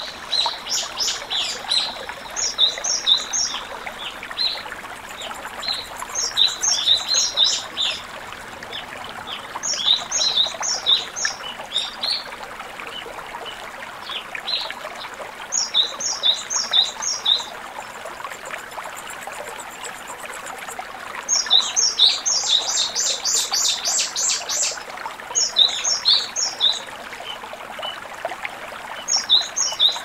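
A songbird singing short phrases of quick, high, repeated notes every few seconds, with a longer, louder run of notes about two-thirds of the way through, over the steady rush of a mountain stream.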